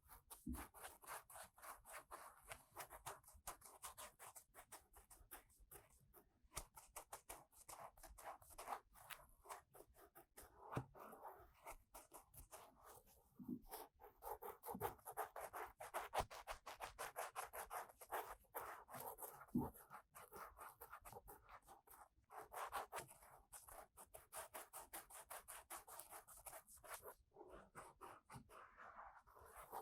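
Faint, rapid scratching and rubbing of an ear-cleaning tool inside the ear of a 3Dio binaural microphone, in quick strokes with a few short pauses.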